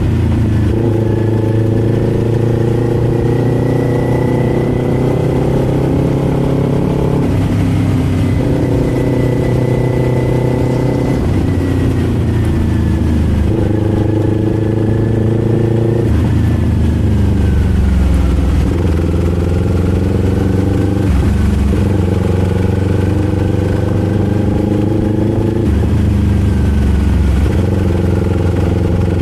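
Kawasaki Z400's parallel-twin engine and exhaust under way on the road. Its pitch holds, then breaks and shifts every few seconds as the rider works the throttle and gears.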